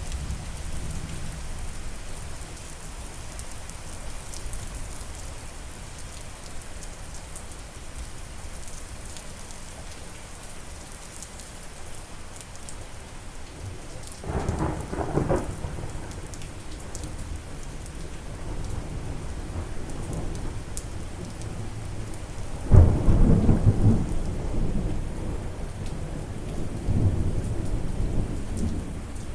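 Steady rain falling, with a short rumble of thunder about halfway through. A louder thunderclap breaks about three quarters of the way in and rolls on to the end.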